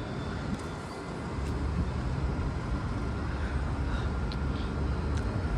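Steady low rumble of a Caltrain electric multiple-unit train standing at the platform, growing louder about a second in, with a few faint clicks.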